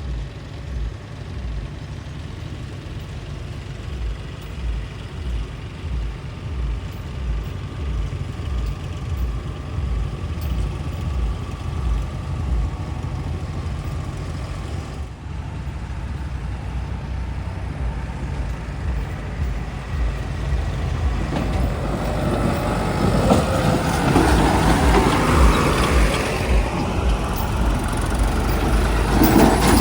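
Heavy diesel engine running with a steady low throb, growing louder and fuller from about two-thirds of the way through.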